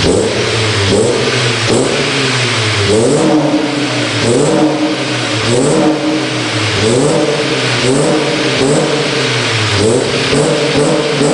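Honda Accord engine revved over and over through an aftermarket exhaust sold as a Fujitsubo Legalis R, which the owner doubts is genuine: about ten quick throttle blips, each rising and falling in pitch.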